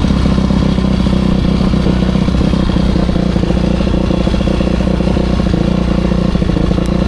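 Motocross bike engine running under way, its revs holding fairly steady.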